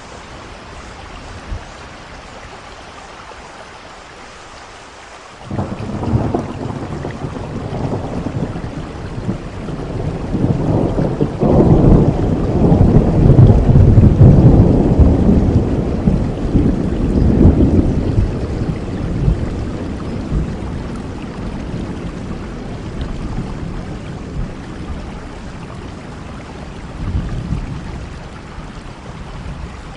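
Steady rain with a long roll of thunder that breaks in suddenly about five seconds in, swells to its loudest around the middle and slowly rumbles away.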